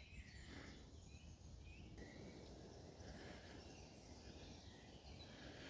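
Near silence outdoors: faint small birds chirping now and then over a low background rumble.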